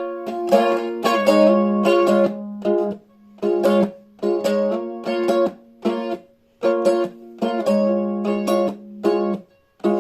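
Instrumental break: a strummed plucked-string instrument playing chords in a steady rhythm, with short stops between groups of strums.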